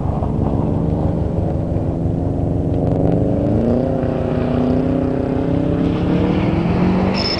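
Car engine running under load, its pitch climbing about three seconds in and then holding steady, dipping near the end.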